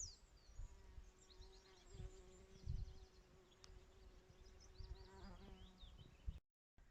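A flying insect, such as a bee or fly, buzzing as a steady hum that wavers and stops about five and a half seconds in. Faint high chirps of small birds come through behind it.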